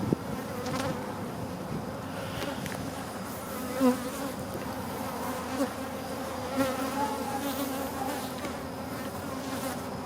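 Many honeybees buzzing around the hive: a steady, many-voiced hum that swells briefly here and there, most plainly about four seconds in.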